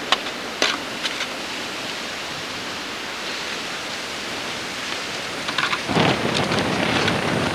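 Steady rushing wind noise on a camcorder microphone outdoors in deep snow, with a few sharp clicks in the first second and a louder, rougher rush from about six seconds in.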